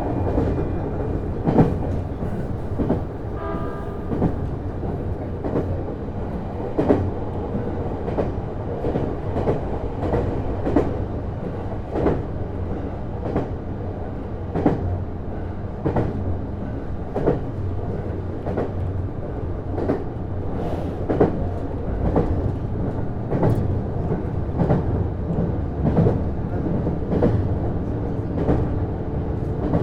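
Interior running sound of a JR East HB-E210 series hybrid diesel-electric train under way: the wheels click over rail joints at an even pace, about once every second and a bit, over a steady low rumble from the running gear and drive.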